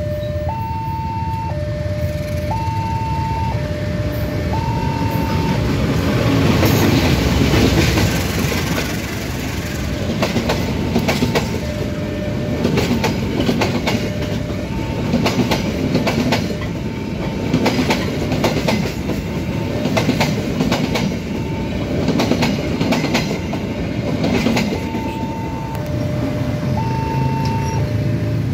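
Railway level-crossing alarm sounding two alternating tones, a high and a low, about a second each, while a parcel train passes. About six seconds in, a loud rumble comes as the head of the train goes by. Then the wagons' wheels clack over the rail joints in quick clusters, and the alarm tones stand out again near the end once the train has passed.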